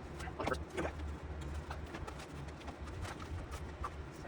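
Shovel digging in crawl-space dirt: irregular scrapes and knocks, the loudest about half a second to one second in, over a steady low hum.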